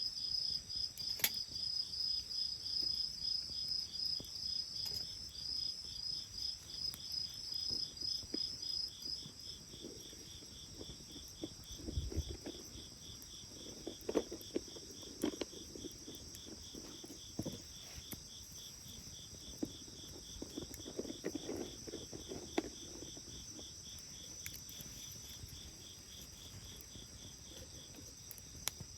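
Crickets chirping in a steady, even pulse. One louder, higher chirper stops about a third of the way in while another keeps going. Scattered soft crackles and pops come from a wood bonfire.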